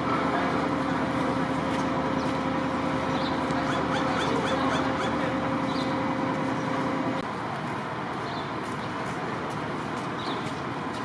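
Fire truck engine running steadily with a low hum that drops away about seven seconds in, while small birds chirp every second or so.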